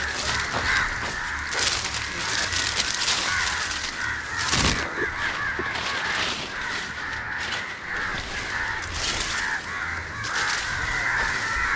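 Many crows cawing over one another without a break, with a few short noisy bursts mixed in.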